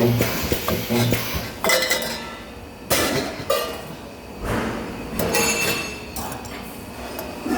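Spot-welding work: sheet-metal parts clinking and clattering as they are handled, with two short low buzzes near the start that fit the spot welder's weld pulses.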